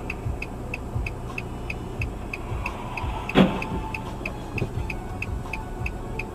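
A car's indicator relay ticking evenly, about three clicks a second, over a low engine rumble inside the cabin. A single thump about three and a half seconds in is the loudest sound.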